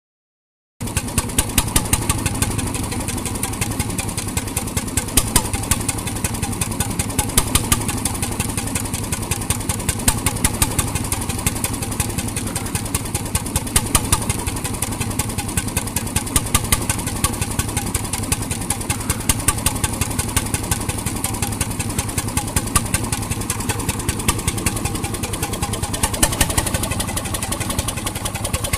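A 1921 RSM 3½ HP hotbulb marine engine running steadily with a rapid, even train of sharp knocks. The sound cuts in abruptly about a second in and holds the same pace throughout.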